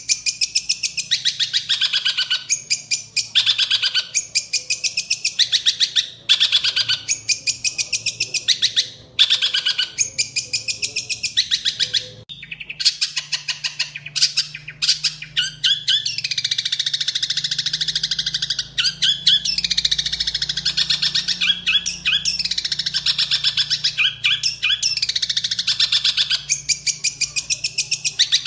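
Long-tailed shrike (cendet) singing a rapid, harsh chattering song filled with mimicked Eurasian tree sparrow chirps. It comes in short bursts about once a second, breaks off briefly, then runs on in a longer unbroken stream of rapid notes.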